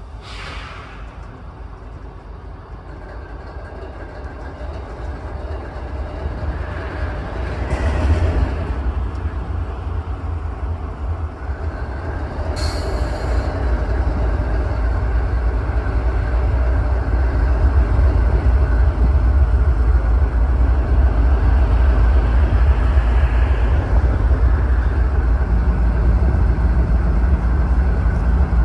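Diesel freight train going by: a low rumble that grows louder through the first half and then holds steady, with a few short sharp knocks.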